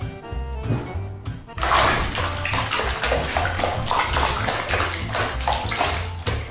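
Background music with a steady bass beat, and from about a second and a half in, a loud rush of water noise over it, like water pouring or splashing.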